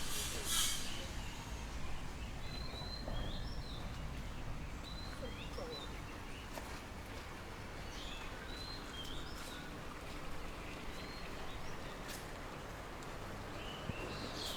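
Birds chirping, with many short high chirps scattered throughout over a steady low background hum.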